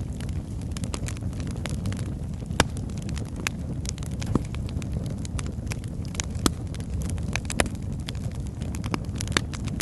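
Wood logs burning in a fireplace, crackling: a steady low rush of flame with frequent sharp pops and snaps, a few of them louder.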